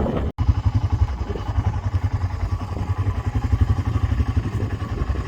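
Four-wheeler (ATV) engine running steadily as it is ridden, a rapid low pulsing rumble. The sound cuts out for an instant near the start.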